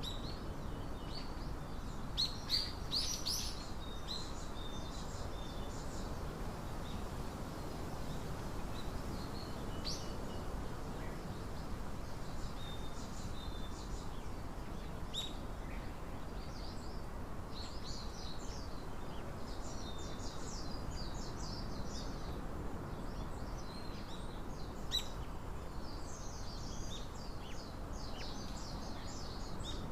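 Small birds chirping and calling in short high notes: a cluster about two seconds in, then scattered calls that thicken over the second half. Under them runs a steady low background hum.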